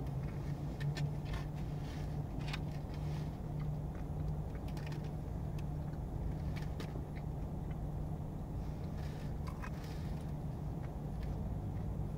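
A person chewing a breaded chicken tender with mouth closed: soft, scattered crunches over a car's steady low hum inside the parked cabin.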